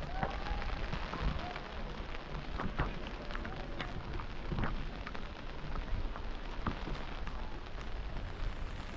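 Rain falling steadily, with scattered drops ticking sharply close by, over a low rumble.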